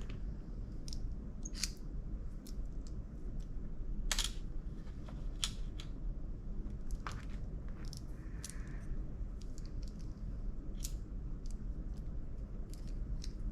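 Irregular sharp clicks and taps of laptop parts being handled during disassembly, over a low steady hum.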